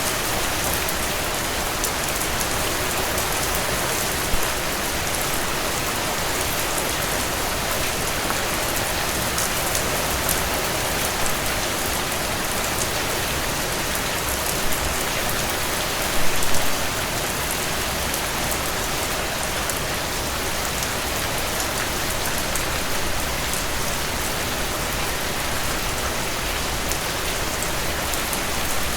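Heavy rain falling steadily in a dense, even hiss, with fine pattering drops and a few brief louder cracks, the biggest about sixteen seconds in.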